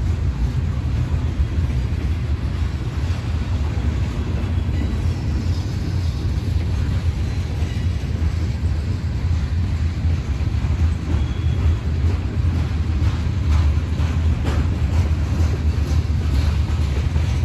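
A train going by, with a steady, loud low rumble.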